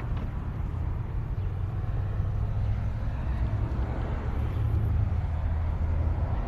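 Road traffic heard as a steady, even rumble of road noise.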